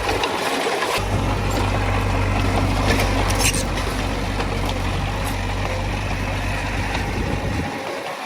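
Heavy diesel earthmoving machine working under load: a deep, steady engine rumble that comes up about a second in and drops away near the end, with a few sharp clicks and scrapes in the middle.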